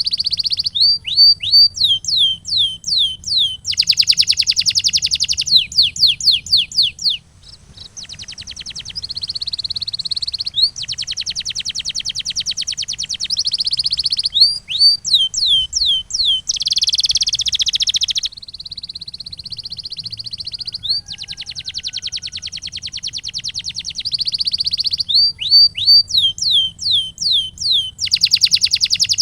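Canary singing: runs of quick falling whistles, four or five a second, alternating with long, fast rolling trills and a held, wavering tone.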